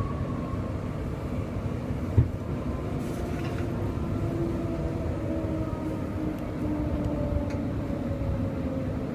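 Queensland Rail electric suburban train heard from inside the carriage, running with a steady low rumble and a single sharp knock about two seconds in. A faint whine falls slowly in pitch in the second half as the train slows into the station.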